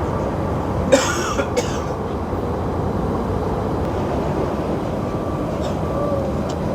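Steady low rumbling outdoor ambience, wind and the city far below, with a brief sharp burst of noise about a second in.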